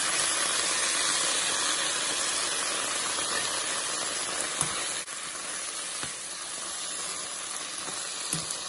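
Potatoes and peas frying in hot oil with a steady sizzle that eases a little about five seconds in, with a few light knocks of a slotted metal spatula against the pan as they are stirred.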